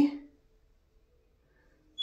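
The end of a spoken word, then quiet room tone with a faint steady hum.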